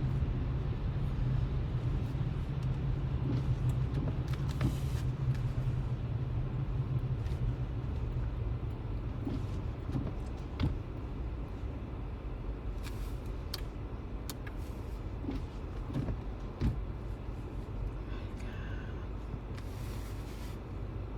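Steady low rumble of road and engine noise heard inside a car driving on snowy roads, with occasional light knocks and clicks.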